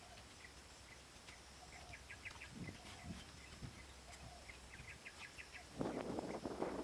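Small birds chirping in quick runs of short calls. Near the end a louder, busy clatter of knocks and rustling sets in.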